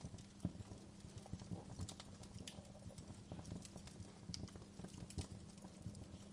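Wood fire crackling faintly: irregular pops and snaps at uneven intervals over a steady low hum.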